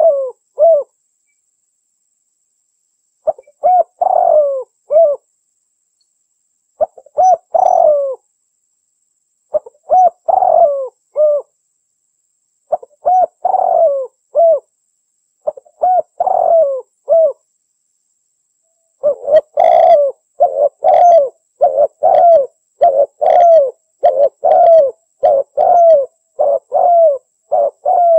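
Female spotted dove (derkuku) cooing: short phrases of a few coo notes about every three seconds, then from about 19 seconds in a faster, unbroken string of coos.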